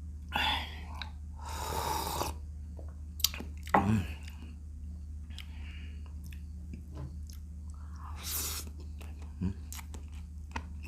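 Close-miked eating of vinegar-stewed shrimp (paksiw na hipon): wet chewing and biting with small crunches and mouth clicks, broken by about four louder noisy bursts of sucking or slurping.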